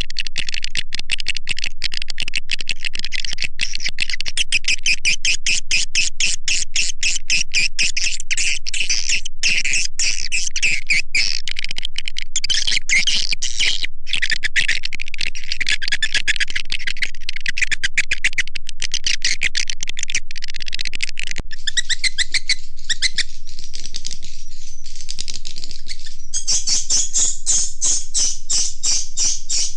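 Swiftlet call-sound lure recording: a dense, continuous stream of rapid high chirps and twitters from many edible-nest swiftlets. It is played to draw swiftlets into a nesting house. The chatter thins a little past two-thirds of the way through, then grows dense again near the end.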